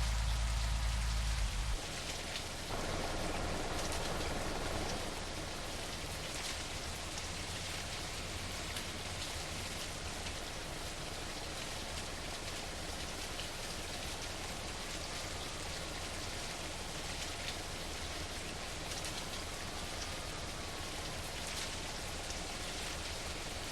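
A steady hiss with scattered patters, like rain, following a low rumble that cuts off about two seconds in.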